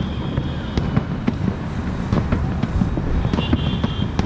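Fireworks going off across the city: many irregular bangs and cracks at varying distances, over a continuous low rumble.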